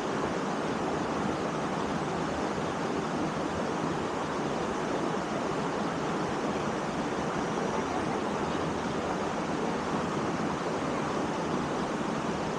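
Steady rushing of falling water from a waterfall, an even, unbroken noise.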